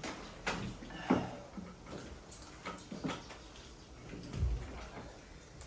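People eating momo dumplings: chewing and mouth sounds with scattered short clicks and soft knocks, and a low thump about three-quarters of the way through.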